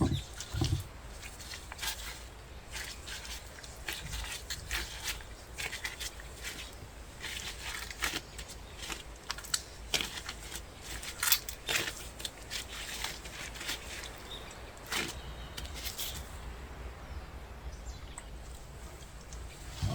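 Irregular small clicks, taps and crinkling of hands working at baking: utensils, dough and wrap being handled.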